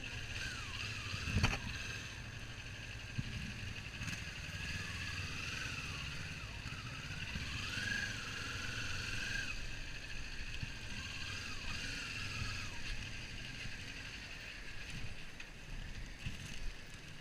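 Kawasaki Ninja 400 parallel-twin engine running under way with wind rush, heard from the rider's camera; the engine note rises and falls several times as the throttle changes. A sharp knock comes about a second and a half in.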